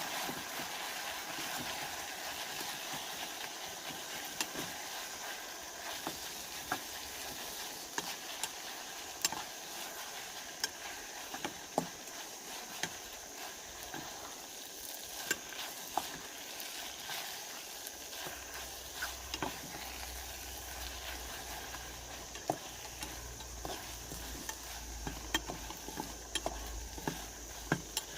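Food sizzling steadily in a frying pan, with scattered clicks and taps of a utensil stirring it. A low steady hum comes in about two-thirds of the way through.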